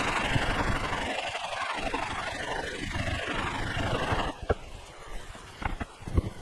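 Harsh scraping as the aluminum cylinder head of a 1981 Honda CB650 has its gasket face resurfaced, running for about four seconds and then stopping, followed by a few light knocks.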